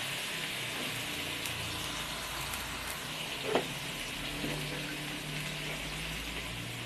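Tofu and fried spice paste sizzling and bubbling in a wok with a little water just added: a steady hiss.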